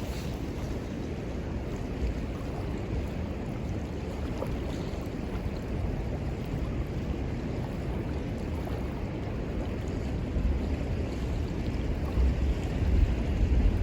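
Steady rush of river water, with wind buffeting the microphone in low gusts that grow stronger near the end.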